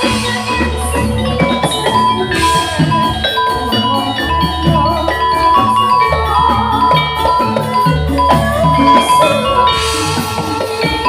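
Javanese gamelan music for a barongan troupe, played loud through a sound system: metallophones ring a melody over drum strokes and repeated deep gong-like low notes.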